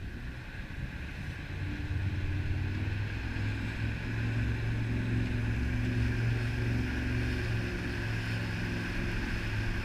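Jet boat engine running steadily, growing louder about two seconds in, over a steady rush of wind and water.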